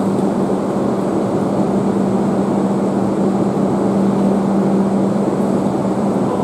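Tohoku Shinkansen train running along the platform: a loud, steady rushing noise with a steady hum.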